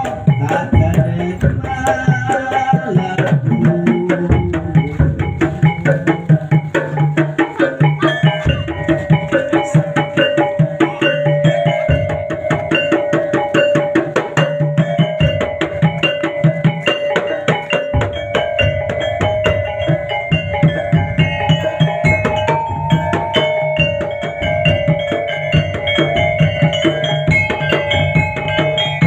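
Topeng Ireng dance accompaniment: fast, dense drumming with a held melody line above it that steps between a few notes.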